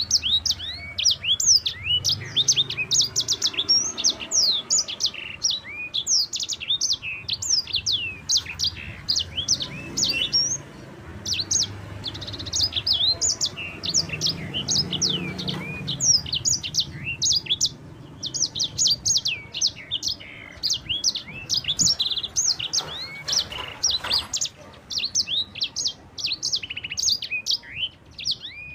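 Sanger, a small canary-type finch, singing a long rolling song of rapid high chirps and sweeping notes, with a few brief pauses.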